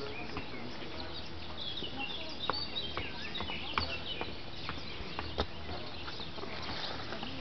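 Small birds chirping and twittering, with a few sharp clicks scattered through.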